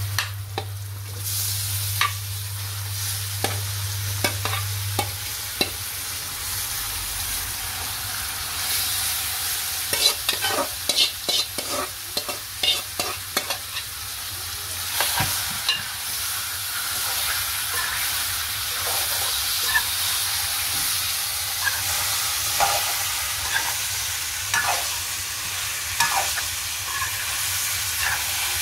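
Marinated chicken sizzling as it fries in hot groundnut oil with browned onions in a steel pan. A metal spoon scrapes and clatters against the pan as the pieces are stirred, most busily around the middle. A low hum stops about five seconds in.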